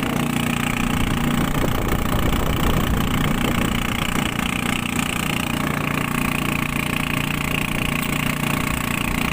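A fishing boat's engine running steadily, with an even low drone.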